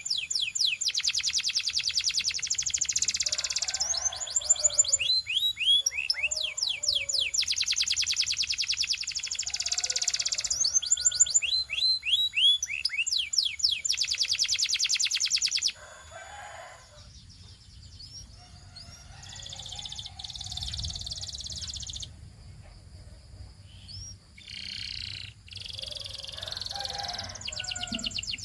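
Canary singing: long, rapid rolling trills alternating with runs of quick rising notes. The song is loud for about the first sixteen seconds, then drops to quieter, broken phrases.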